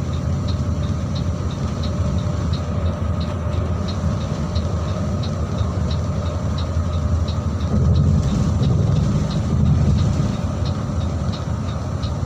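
Mercedes-Benz 1626 bus running on the road, a steady low engine and road rumble that swells a little about eight seconds in. A faint, regular tick comes about three times a second throughout.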